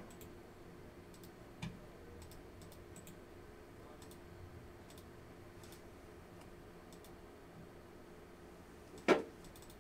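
Light, scattered computer mouse clicks and keyboard taps over a steady low hum, with one short, louder knock about nine seconds in.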